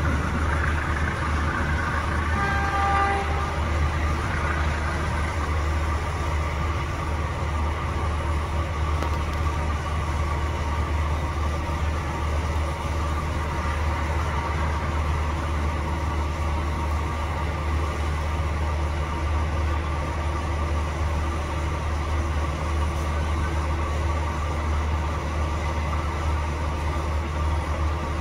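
Passenger train pulling out of a station: a steady low rumble throughout, with a short horn toot about two and a half seconds in.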